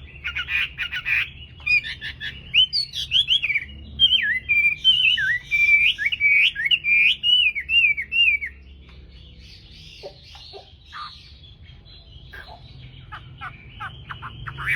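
Chinese hwamei (melodious laughingthrush) singing a loud, varied song of rapid rising and falling whistled phrases. About eight seconds in, the song gives way to quieter, shorter rapid notes.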